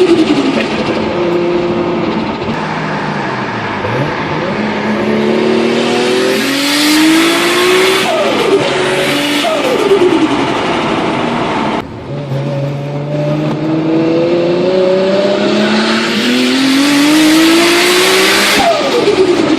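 Modified Nissan Skyline R34 GT-R's twin-turbo RB26 straight-six accelerating hard in two pulls, the pitch climbing steadily and dropping at each quick upshift. The sound breaks off abruptly near the middle before the second pull, which ends with a falling drop in revs.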